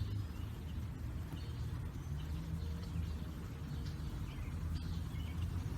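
Outdoor ambience: faint, scattered bird chirps over a low steady rumble.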